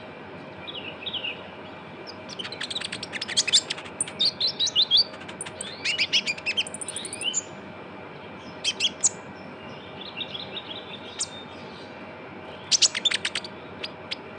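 Kolibri ninja (purple-throated sunbird) singing a rapid 'trotol' song: bursts of fast, high-pitched chirps and trills. The longest burst runs through the first half, followed by shorter bursts and a final quick flurry near the end.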